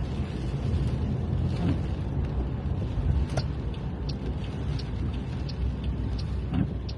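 Car being driven, heard from inside the cabin: a steady low engine and road rumble, with a few scattered faint ticks.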